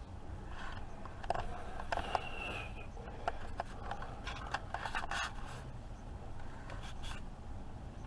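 Keurig K-Supreme Plus single-serve coffee maker starting a brew cycle after its brew button is pressed: a steady low hum with scattered light clicks and scrapes, before any coffee dispenses.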